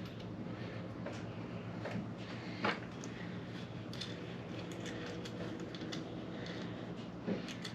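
Small metal parts and hand tools being handled during differential reassembly: scattered light clicks and clinks, with two sharper knocks, one a little under three seconds in and one near the end, over a steady background hum.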